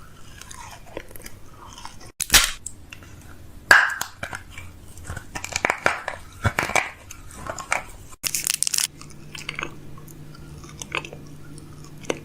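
Close-up clicks, knocks and crunchy rustles of food packaging and plastic containers being handled and set into a refrigerator. The clicks come at irregular intervals, and a low hum sets in about two-thirds of the way through.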